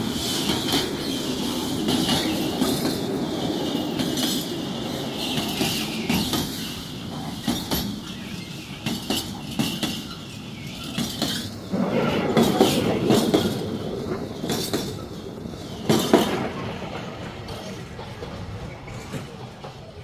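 Freight train wagons rolling past on the track, with repeated sharp clicks and clanks of the wheels over the rails. The sound grows fainter over the last few seconds.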